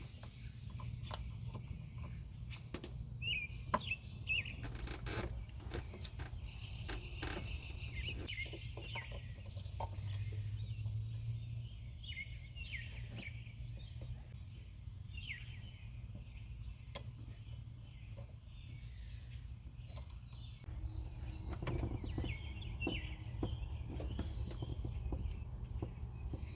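Small birds chirping on and off, over a steady low rumble, with scattered sharp clicks and knocks.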